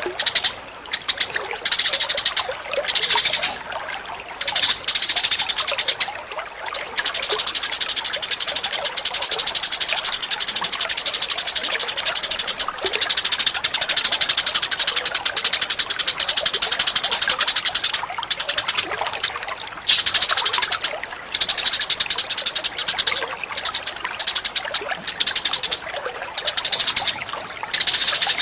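Recorded bird calls: loud, very fast high-pitched chattering trills in long runs with short breaks, over a faint steady sound of running water.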